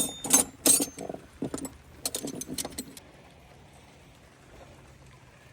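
Metal clinking and rattling: a quick run of sharp clinks over about the first three seconds, then it stops.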